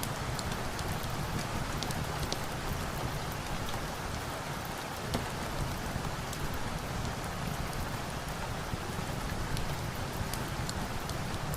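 Steady rain falling, an even hiss of rain on surfaces with scattered sharp ticks over it.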